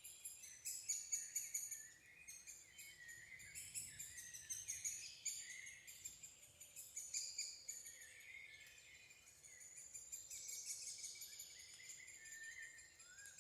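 Wild birds chirping and singing, several quick, high calls overlapping.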